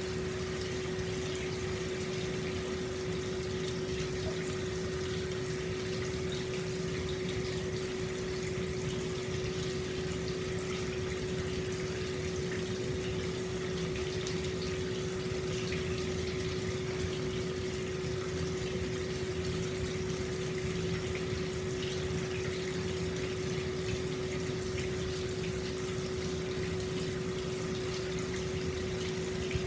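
Hot spring water flowing steadily into an open-air bath, an even rush of water with a steady low tone running through it.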